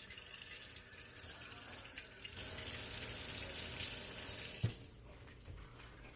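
Water running from a tap into a sink. The flow gets louder about two and a half seconds in, then cuts off with a short knock as it is turned off.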